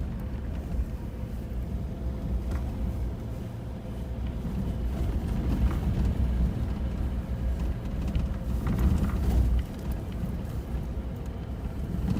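Off-road 4x4 driving on a rough forest track, heard from inside the cabin: a steady low engine and tyre rumble with scattered short knocks and rattles.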